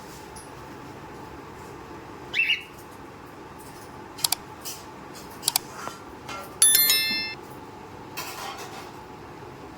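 Cockatiel giving short chirps and calls, with a few sharp clicks, over a steady background hiss. The loudest is a brief whistled call a little past the middle.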